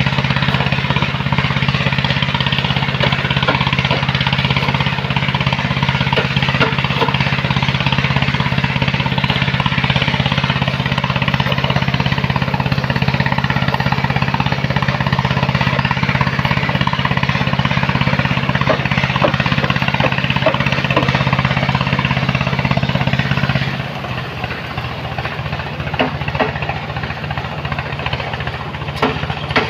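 A large machine engine runs steadily under load, with a noisy rush above the engine note. About three-quarters of the way through it drops suddenly to a quieter, lower note, and a few sharp knocks follow.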